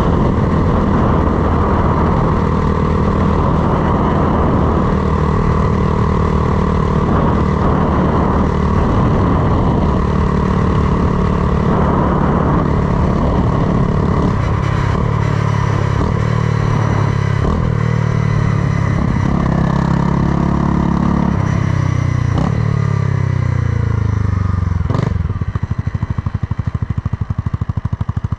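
Honda Grom's swapped-in CBR300R single-cylinder engine running under way at a steady pace, then slowing with several downshifts, the revs dropping in steps, before settling to idle near the end. A single sharp click just before the idle.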